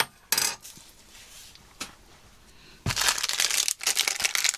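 MRE plastic packaging being handled, crinkling and rustling: a short burst just after the start, then a longer stretch of crinkling in the second half.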